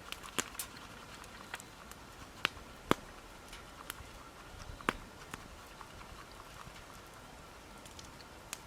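Wood campfire crackling: sharp, irregular pops and snaps from burning wood, about a dozen, the loudest three a little under three seconds and about five seconds in.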